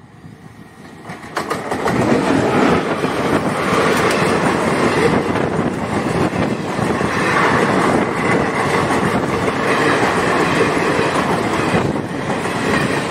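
Indian Railways passenger train passing close by: the noise builds over the first two seconds as it arrives, then holds as a steady loud rush with wheels clattering over the rail joints as the coaches go by.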